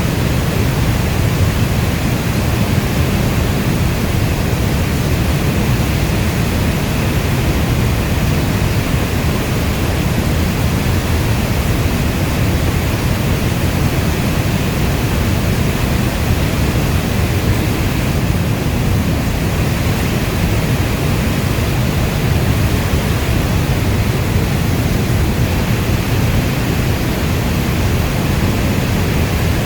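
Heavy rain falling steadily: a dense, even rush of noise, heaviest in the low end, with no single drops or claps standing out.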